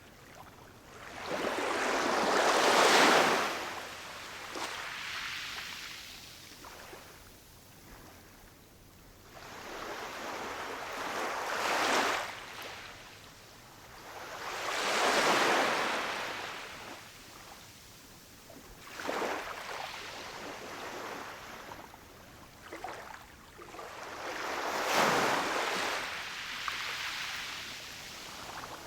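Ocean waves breaking and washing up the shore, five surges that swell and fade, with quieter wash between them.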